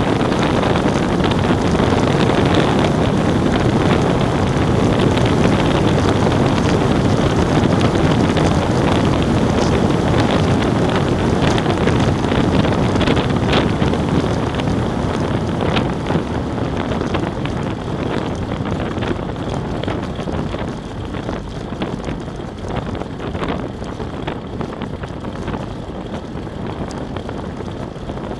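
Heavy wind noise buffeting the microphone during a downhill run, a loud, rough rushing that eases off somewhat about halfway through.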